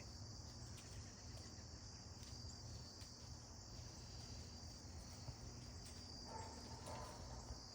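Faint, steady high-pitched insect chorus, with a brief faint rustle a little past six seconds in.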